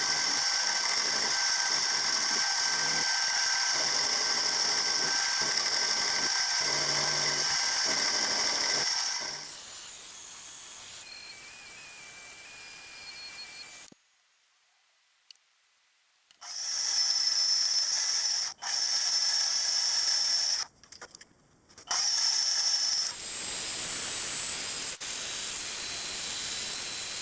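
Small metalworking machine tool running with a steady high whine while machining metal parts. The sound stops and changes abruptly several times, with a couple of seconds of near silence about halfway through.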